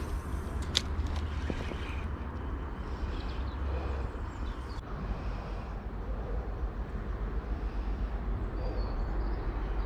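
Steady outdoor rumble and hiss with a strong low drone, with one sharp click about a second in.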